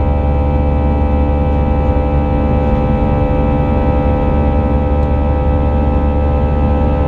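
Airbus A319 jet engines heard from inside the cabin: a steady, loud drone with a deep rumble and a set of steady whining tones above it, unchanging throughout.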